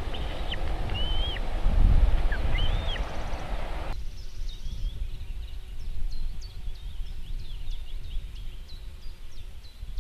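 Birds calling: a few arching whistled calls over low wind rumble, then about four seconds in the sound cuts abruptly to a quieter background full of short, high chirps.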